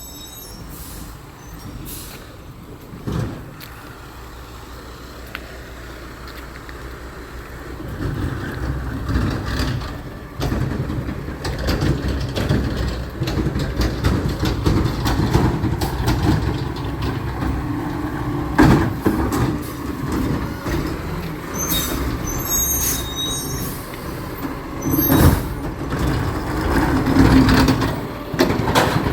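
Recycling truck's engine growing louder about eight seconds in and running on, with several sharp knocks over it.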